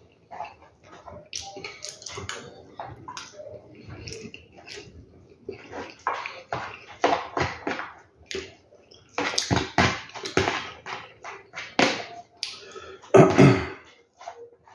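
Close-miked eating: wet chewing and lip smacking, with a metal spoon scraping and clinking in the pot, in short irregular bursts. One louder, longer burst near the end.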